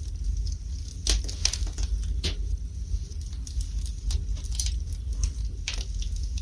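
Wood fire burning in a fireplace, crackling with irregular sharp pops, several of them close together about a second in and more near the end, over a low steady rumble.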